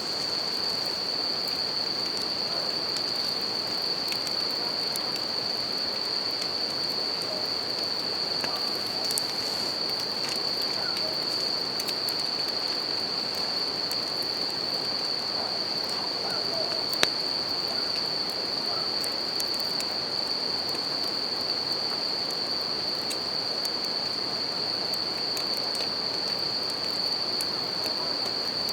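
Campfire crackling with scattered small pops and one sharper pop past the middle, over the steady rush of a river. Bell crickets keep up a continuous high, even trill.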